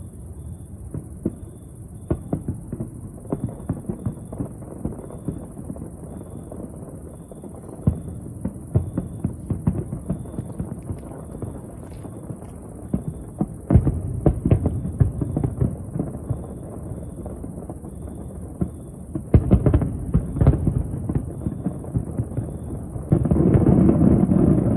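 Distant fireworks: a steady run of muffled booms and crackling bangs with a low rumble, coming in denser, louder clusters about 14 and 20 seconds in. Near the end a louder continuous rushing noise comes in.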